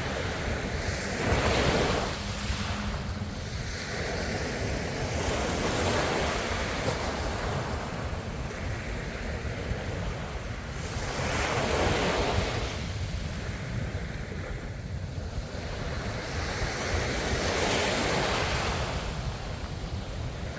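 Ocean waves breaking and washing on the shore, swelling into four surges about six seconds apart over a steady low rumble of surf.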